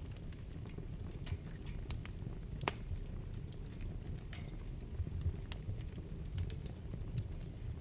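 Wood fire burning in a fireplace: a low steady rumble with irregular crackles and pops, the sharpest pop about two and a half seconds in.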